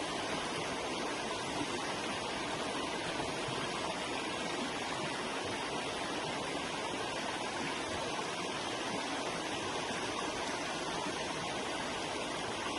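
Forest river flowing, a steady rushing of water over rocks.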